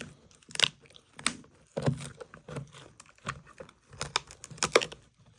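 A dog chewing food with its mouth, a sharp crunch every half second to a second.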